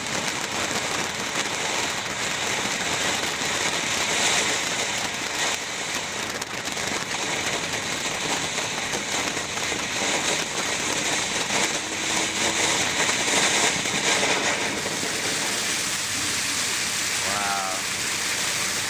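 500-gram Black Cat Black Beard firework fountain burning, a steady hiss of spraying sparks with crackle running through it.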